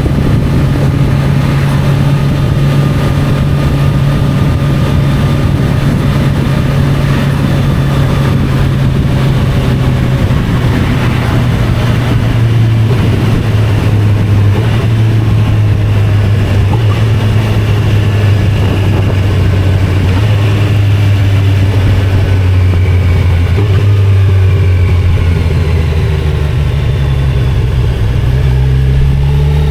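2025 Kawasaki Z900's inline-four engine running under way at steady revs. Its pitch drops a step about ten seconds in and again near the end, then starts to climb.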